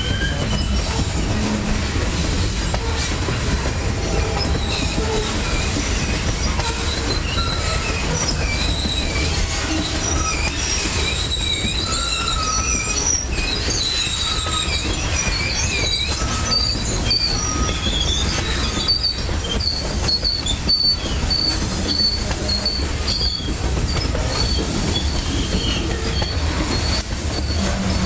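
Loaded covered hopper cars of a freight train rolling steadily past with a continuous low rumble, their wheels squealing in wavering high tones that come and go.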